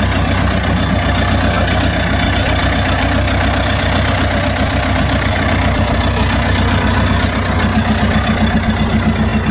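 Heavy tractor diesel engine running steadily. About three quarters of the way through, a higher note joins and the sound begins to throb.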